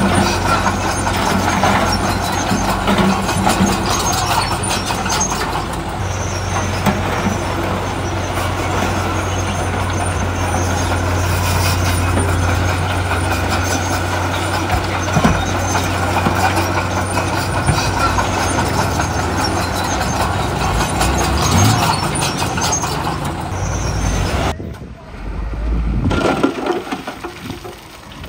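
Heavy diesel earthmoving machinery (bulldozer and dump trucks) running steadily under load with a constant engine drone. It cuts off suddenly near the end, leaving quieter uneven sounds.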